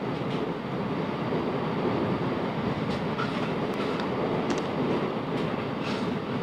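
South Western Railway Class 707 electric multiple unit running along the line, heard from on board: a steady rumble of wheels on rail with a few faint clicks.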